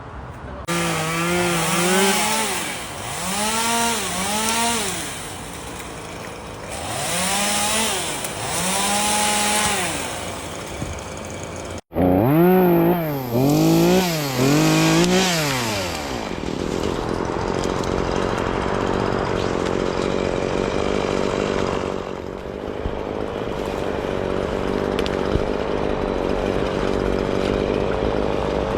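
Chainsaw revving up and down in repeated bursts, then, after about sixteen seconds, running steadily at a constant pitch.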